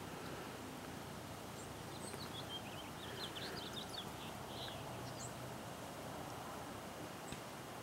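Steady outdoor background noise with a small bird chirping a quick run of short, high notes between about two and five seconds in.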